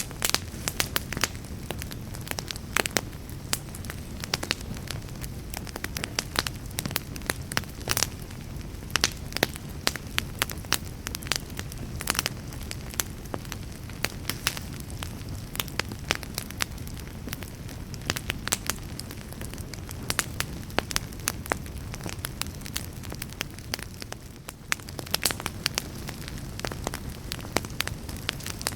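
Fire burning in a fireplace, crackling with frequent sharp pops and snaps over a low steady rumble of flames, with a short lull in the crackling near the end.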